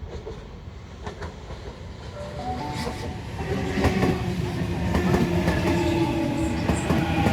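Electric suburban passenger train moving along the platform and growing steadily louder, its wheels knocking over the rail joints. About two and a half seconds in, a motor whine of several steady tones sets in and stays.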